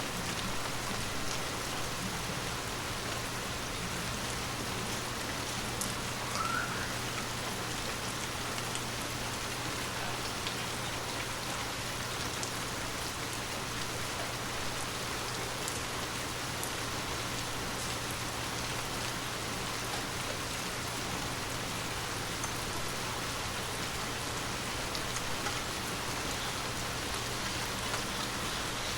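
Water droplets tapping on glass: a steady, dense patter with scattered sharper ticks.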